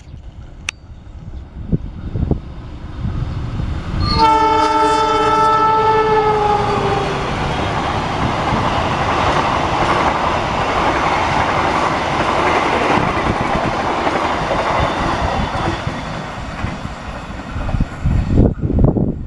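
A passing train's horn sounds one long blast of about two and a half seconds, dipping slightly in pitch at its end. The train then runs past for about ten seconds, wheels clattering over the rails and cars rattling, before fading near the end.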